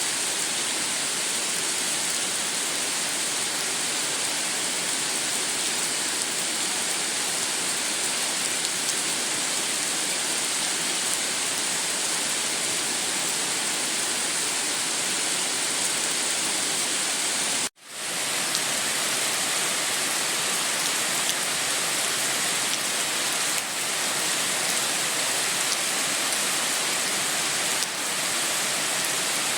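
Steady heavy rain falling, an even hiss of drops. It cuts out for an instant about eighteen seconds in and comes straight back, like the seam of a looped recording.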